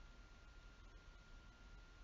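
Near silence: faint room tone and recording hiss between narrated sentences.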